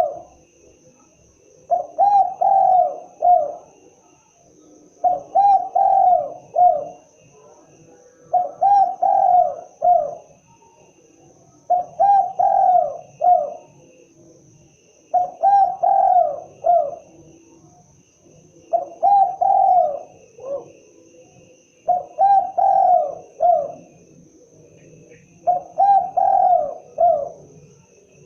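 Spotted dove (tekukur) cooing its song, a short phrase of several coos repeated about every three and a half seconds.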